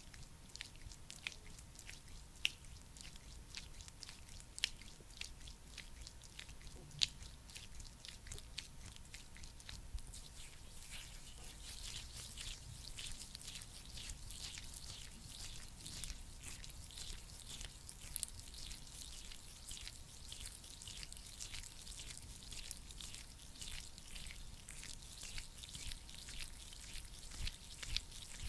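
Thick, sticky ointment being worked close to the microphone: sparse sharp sticky clicks, turning into dense wet crackling about ten seconds in.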